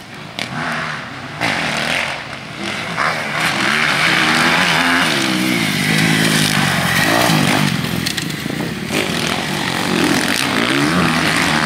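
Motocross bike engines revving up and falling back repeatedly as riders open and close the throttle, growing loudest through the middle and again shortly before the end.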